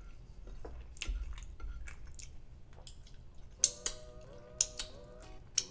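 Close-miked wet eating sounds: chewing chicken and rice with small mouth clicks. In the second half come three sharp lip smacks as chilli sauce is sucked off the fingers.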